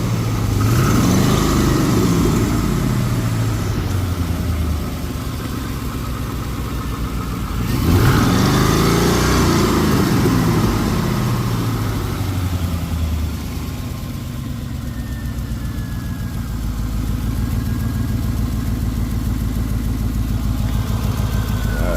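Twin-turbo LS V8 in a BMW E36 running under way. It revs up and back down twice, then settles to a steadier, lower run.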